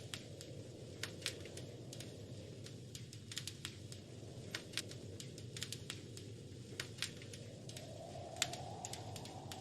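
Wood fire crackling in a fireplace: irregular sharp snaps and pops, some louder than others, over a steady low rushing noise.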